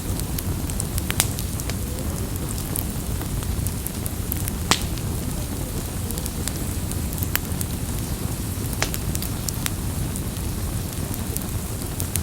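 Wood campfire burning: a steady low rumble of flames with scattered sharp crackles and pops, two louder pops about a second in and near the middle.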